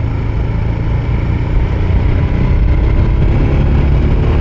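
Royal Enfield Himalayan's single-cylinder engine running steadily under way, with wind rumble on the microphone. It gets a little louder about a second and a half in.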